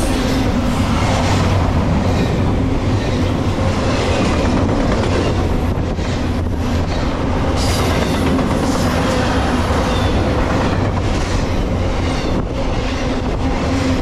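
Intermodal freight train of double-stack container well cars and trailer cars rolling past close by: steel wheels running on the rails with a steady, loud rumble and a scattered clickety-clack of wheels over the rail joints.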